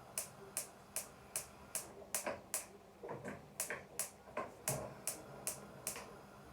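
Gas hob's electric spark igniter clicking rapidly and regularly, about two to three sharp clicks a second, as a burner is lit; the clicking stops about six seconds in.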